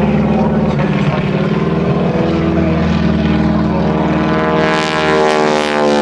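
North American T-6 Texan's nine-cylinder Pratt & Whitney R-1340 Wasp radial engine and propeller running loudly in a flyby, the pitch dropping steadily from about two-thirds of the way in as the plane passes.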